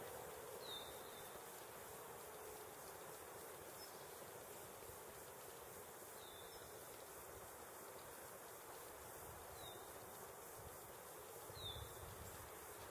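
Faint outdoor hiss of still winter woods, with a small bird giving a short, high, falling call four times, several seconds apart.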